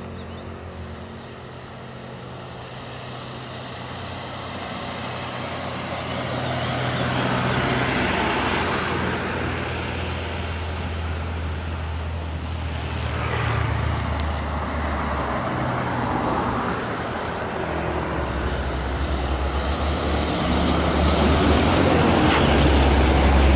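Heavily loaded truck's diesel engine pulling uphill, growing steadily louder as it draws closer, with a couple of brief dips in level.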